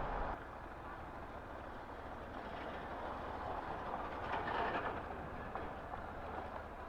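Riding noise from a motorcycle on the road: a steady rush of wind and road noise, swelling louder for about a second around the middle.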